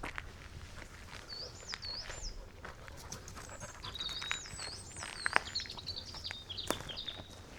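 A songbird singing high whistled notes that rise and fall, a short phrase about a second in and a longer run from about four seconds in, with scattered crackles of footsteps on the forest floor.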